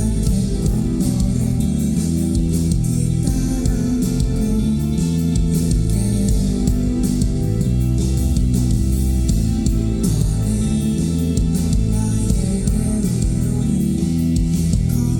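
A live band playing at concert volume, with guitars over a heavy bass line that dominates the low end.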